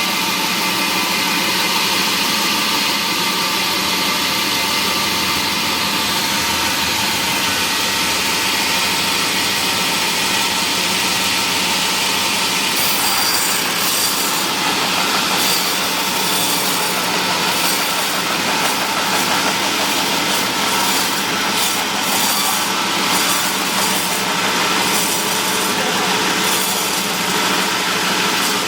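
Power saw in a wood mill cutting mahogany timber: its motor runs with a steady hum, and about halfway through a harsher, uneven high hiss of the blade working through the wood joins in.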